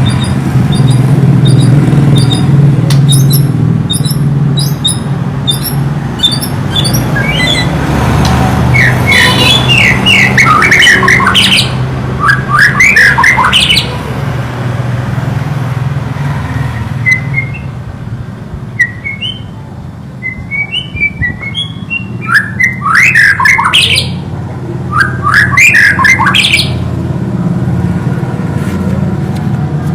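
White-rumped shama (murai batu) singing: thin high chirps at first, then bursts of quick falling whistled phrases, a scatter of short notes, and another run of quick phrases near the end. A steady low hum runs underneath.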